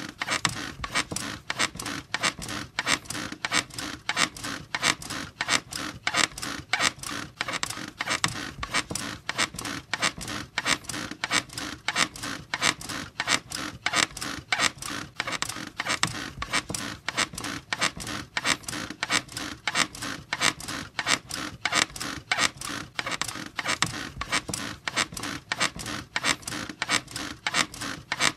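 Bed squeaking in a fast, even rhythm: bedsprings and frame creaking with each short, repeated stroke, several a second, without pause.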